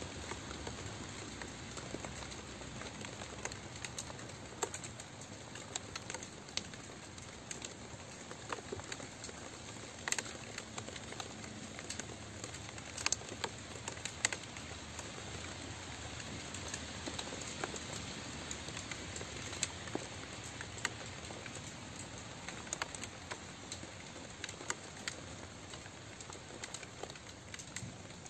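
Steady rain: an even hiss of rainfall with many scattered, sharp drops pattering on a hard surface.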